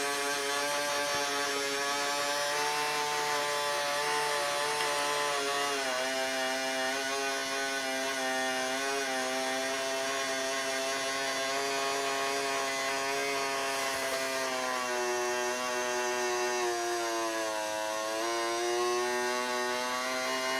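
Small electric gear motors of a radio-controlled model construction machine running continuously with a whining hum. The pitch drops and recovers about six seconds in, and sags again near the end.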